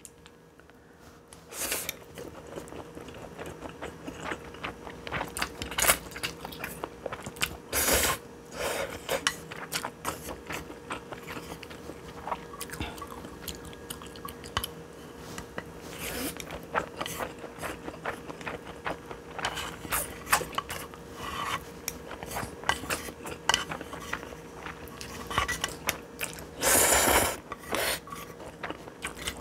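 Close-up eating of instant stir-fried noodles: many small chewing clicks and smacks. Two louder, longer noisy sounds come about eight seconds in and near the end, over a faint steady hum.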